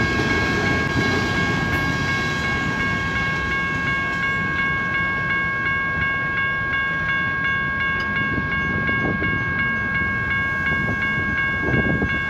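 Railroad crossing warning bell ringing steadily at about three strikes a second, over the low rumble of rail traffic; the crossing is malfunctioning and activated.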